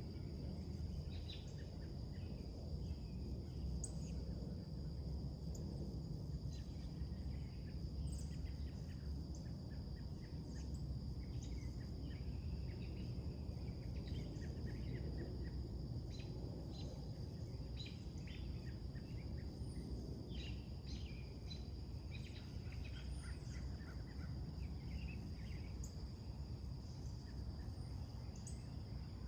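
Scattered short bird chirps and calls over a steady high insect drone and a low, steady background rumble.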